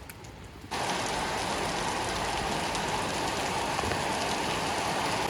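Heavy rain pouring, a steady even hiss that jumps suddenly louder less than a second in.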